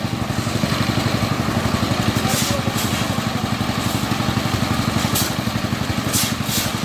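Engine of road-construction machinery running steadily with a fast, even pulse, with several brief hisses over it.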